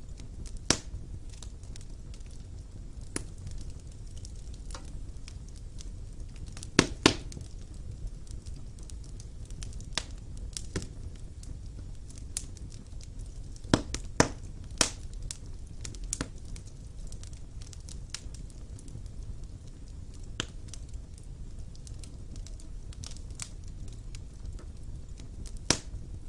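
Fire burning in a stone fireplace: a low steady rumble of flames with irregular sharp crackles and pops, the loudest coming in quick pairs about seven and fourteen seconds in.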